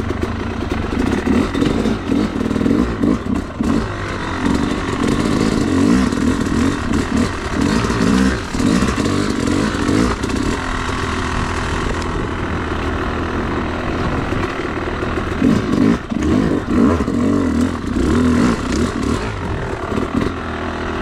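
Yamaha YZ250 two-stroke dirt bike engine running under constantly changing throttle, revving up and easing off in short bursts as the bike is ridden slowly over trail obstacles.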